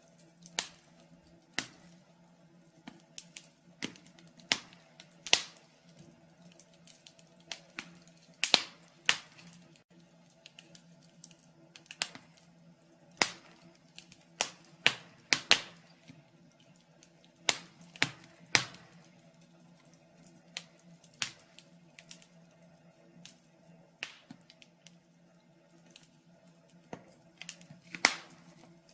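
Wood fire in a fireplace crackling: irregular sharp pops and snaps, a few of them noticeably louder, over a faint steady low hum.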